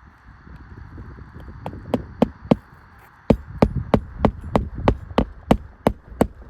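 Hammer strikes: four blows, a short pause, then a steady run of about ten blows at roughly three a second, each a sharp knock.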